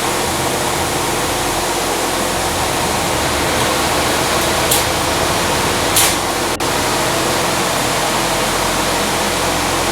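Repurposed furnace squirrel-cage blower running on high with its outlet partly covered: a steady rush of air over the motor's hum. With the outlet restricted, the blower has sped up and is freewheeling, drawing only about 1.75 amps.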